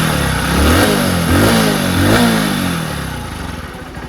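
Hero HF Deluxe motorcycle's small single-cylinder four-stroke engine, freshly tappet-set and with new clutch plates, being revved in quick repeated throttle blips, about one every two-thirds of a second, then settling toward idle near the end.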